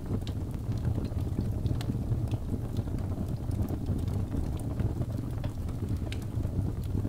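Birch log fire crackling: irregular sharp snaps and pops over a steady low rush of flame.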